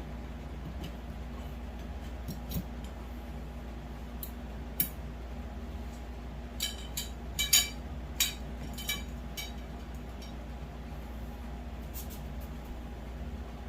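Metal grow-tent frame poles being fitted into their corner connectors, giving a few sharp, ringing clinks, most of them bunched together around the middle. A steady low hum lies underneath.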